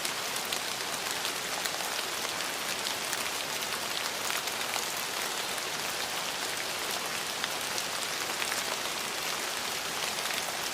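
Steady rain falling: a dense, even hiss with many individual drops ticking close by.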